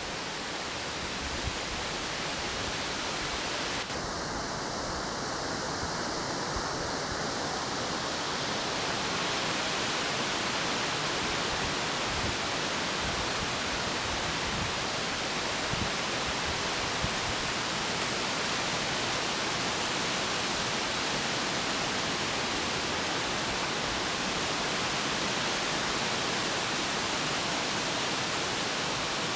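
Steady rush of falling or flowing water, such as a waterfall or fast creek, an even hiss across the whole range with a few small low bumps.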